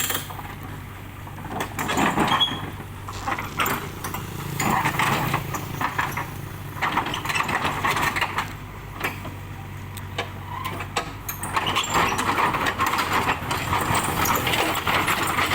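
A diesel engine runs steadily under irregular knocks and rattling clatter: a truck being loaded by a backhoe. The clatter grows busier in the second half.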